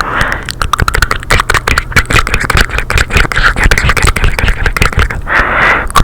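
Close-miked ASMR mouth sounds: a rapid, continuous run of wet clicks and pops, several a second, with breathy hiss between them.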